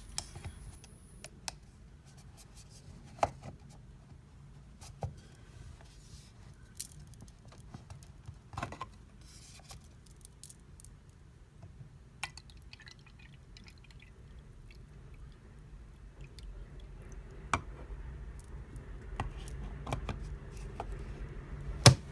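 Scattered clicks and taps from a small plastic USB mini humidifier being handled as its top is fitted and its cable plugged into a power bank, with light water sounds as it is topped up. A sharper, louder click comes just before the end.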